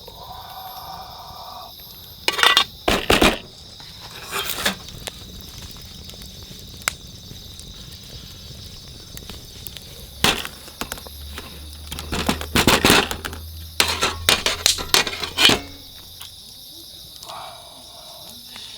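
Cooking clatter: a utensil knocking and scraping against a pan in short bursts, over a steady chirping of insects.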